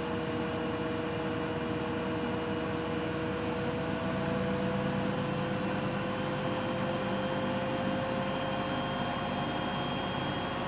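Miele Novotronic W822 front-loading washing machine in its final spin: the motor whines over a steady drum rumble, and its pitch creeps slowly upward as the drum gains speed.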